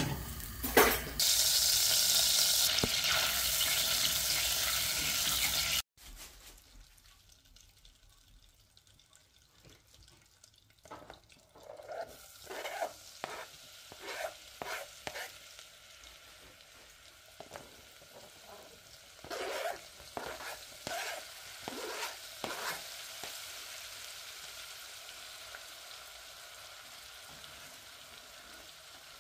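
Butter sizzling and then garlic frying in a stainless steel saucepan. A loud steady hiss for the first few seconds cuts off suddenly; later come a series of short knocks and scrapes as chopped garlic is tipped in from a chopping board, each followed by a burst of sizzling, and then a steady sizzle that slowly fades.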